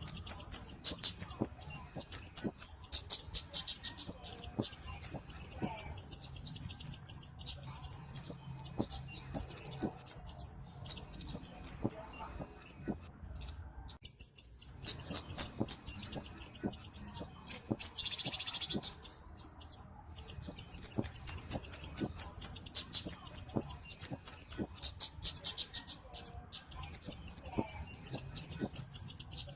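A flowerpecker (cabe-cabean, kemade) singing: long runs of very rapid, thin, high-pitched twittering notes, broken by a few short pauses.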